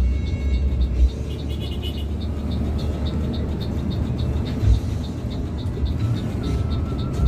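Steady low rumble of the bus's engine and tyres on the road, heard from inside the moving passenger bus, with a few brief louder swells.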